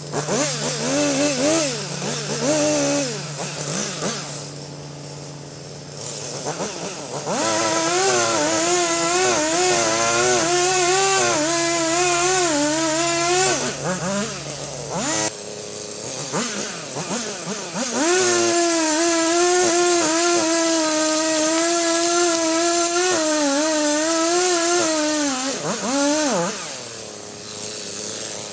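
Chainsaw cutting into a pine trunk during felling, revved hard for two long stretches, the first about seven seconds in and the second about eighteen seconds in, its pitch dipping now and then as it works in the cut. It drops back to a lower, quieter running speed between the cuts and near the end.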